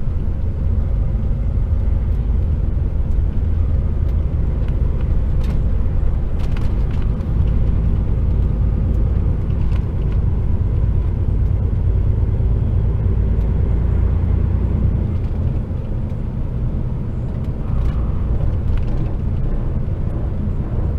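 HGV tractor unit's diesel engine running under load, heard from inside the cab as a steady deep drone with exhaust vibration.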